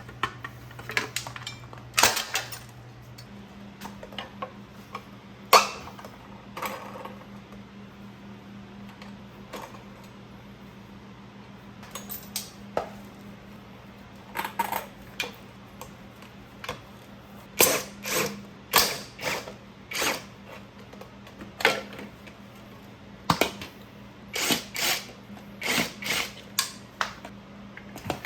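Hand tools and loose metal parts clicking and clinking as a motorcycle is taken apart, in irregular runs of sharp knocks, over a steady low hum.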